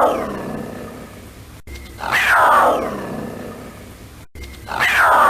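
A loud animal call, a roar or growl that starts high and slides down in pitch while fading over about a second and a half, repeated identically about every two and a half seconds as a looped recording.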